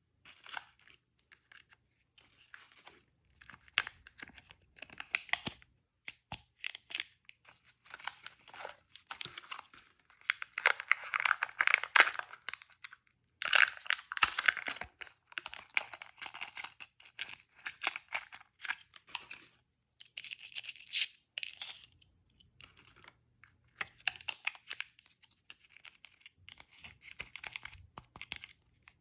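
Candy wrappers and packaging being torn open and crinkled by hand, in irregular bursts of crackling with short pauses between.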